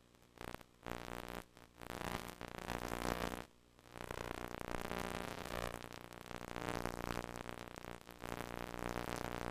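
VHS HiFi audio buzz: a harsh, steady-pitched electrical buzz over hiss that cuts in and out several times in the first four seconds and then runs on, the sign of a damaged tape's HiFi track dropping out.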